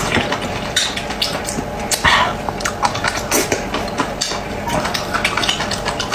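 Close-up mouth sounds of someone eating raw octopus: wet chewing and smacking, with irregular short clicks.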